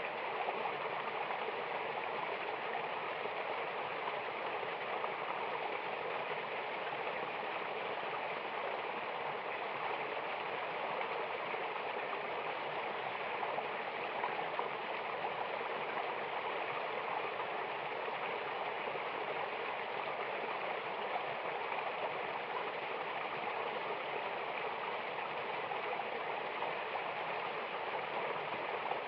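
Mountain river or waterfall water rushing steadily, an even splashing hiss with no change in level.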